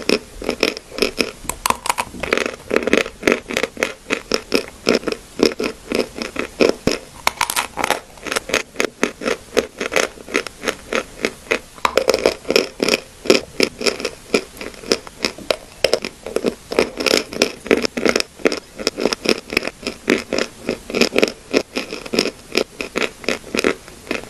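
Clay crunching and crumbling: a dense, steady run of sharp crackles and snaps coming in quick rhythmic clusters.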